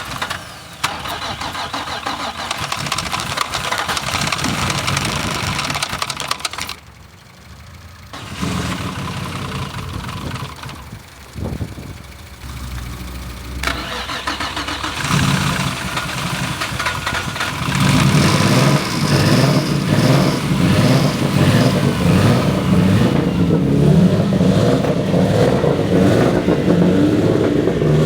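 Turbocharged Infiniti G35's engine being cranked over and catching, then running steadily from about fifteen seconds in, louder from about eighteen seconds.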